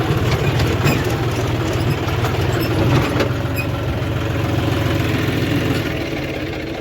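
John Deere tractor's diesel engine running steadily, with a couple of sharp knocks or rattles about one and three seconds in.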